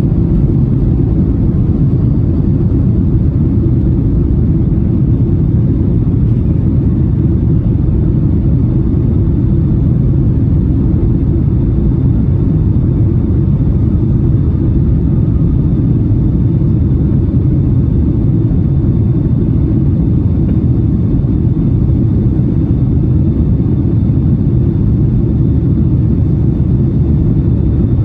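Steady low drone of a Boeing 757-300 airliner heard from inside the cabin: engine and air noise, even throughout.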